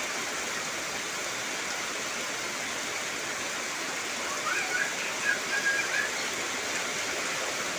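Heavy rain falling steadily in an even hiss. A few short, wavering high calls rise over it in the middle.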